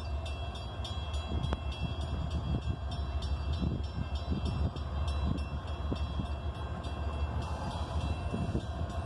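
Norfolk Southern loaded coal train rolling by with a steady low rumble, with scattered light clicks and faint thin high tones over it.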